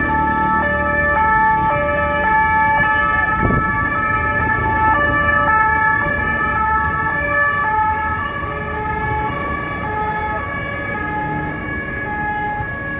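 Two-tone emergency vehicle siren sounding over street traffic, switching between a high and a low note about every half second, growing slightly fainter near the end.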